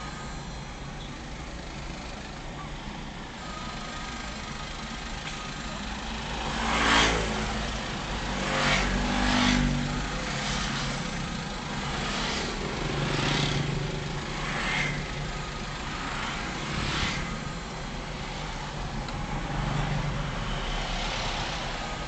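Road traffic noise: a steady rumble of driving, with several vehicles passing one after another from about a quarter of the way in, the loudest pass close behind it.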